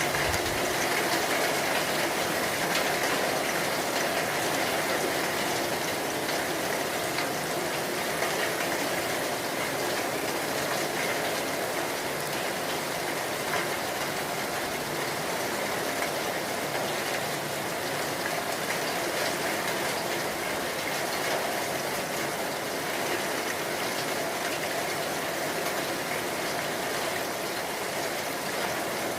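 Steady heavy rain falling, an even hiss that holds without a break.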